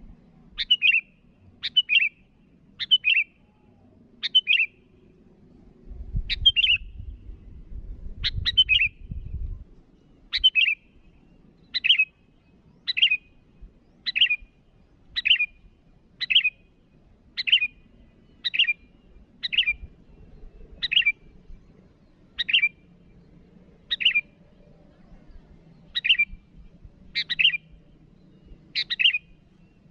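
Sooty-headed bulbul (kutilang) giving short, sharp calls about once a second, many in quick pairs. A low rumble runs under the calls between about six and nine and a half seconds.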